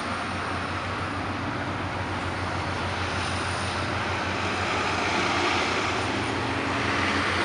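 A diesel passenger train passing with a steady low drone, mixed with street traffic; the noise swells about five seconds in as a flatbed semi truck drives close by.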